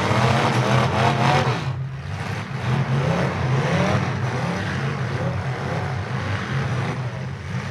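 Several demolition derby cars' engines running and revving at once, their pitch rising and falling over and over as they drive and hit each other.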